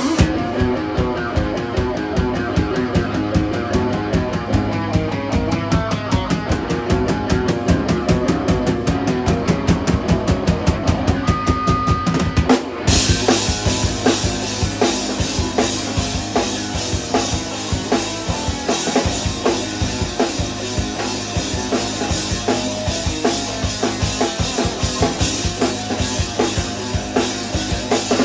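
Live instrumental rock band playing: a driving drum kit with bass drum over electric guitar and bass. About thirteen seconds in the cymbals crash in and the sound gets fuller.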